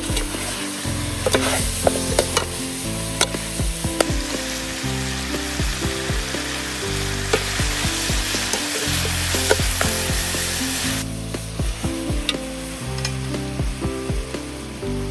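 Fish pieces and chilli paste sizzling in a large aluminium pot, with a metal ladle clanking and scraping against the pot as the food is stirred. The sizzle grows louder about four seconds in and drops away suddenly about two-thirds of the way through.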